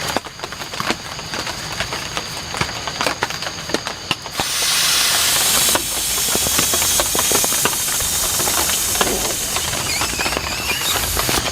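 Heavy rain: scattered drop taps, then about four seconds in a loud, steady hiss sets in suddenly and keeps on.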